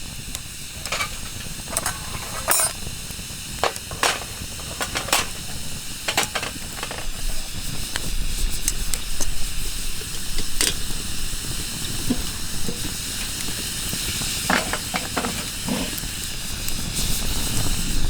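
Wood fire crackling, with sharp pops scattered over a steady hiss.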